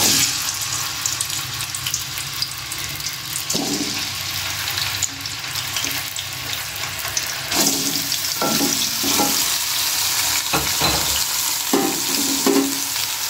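Chicken feet sizzling as they fry in hot cooking oil in a karahi. The sizzle starts abruptly and grows louder about halfway through, and in the second half a spoon knocks and scrapes against the pan as they are stirred.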